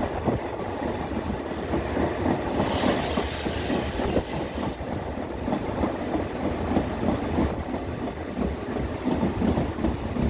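Passenger train running along the track, its wheels clattering and rumbling on the rails, with a rush of higher hiss for a couple of seconds about three seconds in.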